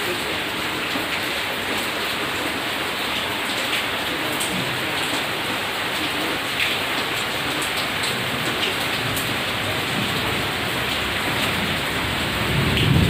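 Steady rain falling, with scattered ticks of single drops; a louder low rumble comes in near the end.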